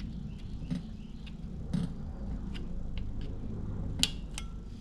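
A few sharp clicks and taps of a flathead screwdriver working a plastic ABS-wire retaining clip out of its slot, the loudest about four seconds in, over a steady low rumble.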